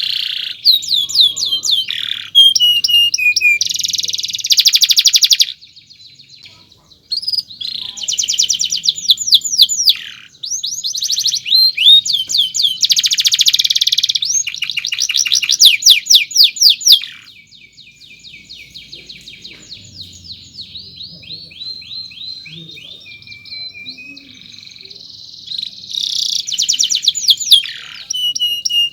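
Domestic canary singing a long song of fast repeated chirps and rolling trills, delivered in loud phrases with a short break about six seconds in. Partway through, it drops to a quieter, softer run of notes before rising again near the end.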